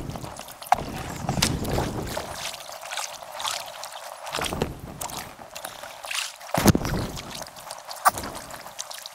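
Kayak paddling sped up in time lapse: quick, irregular paddle splashes and water sloshing, with a few sharp knocks, the loudest about two-thirds of the way through.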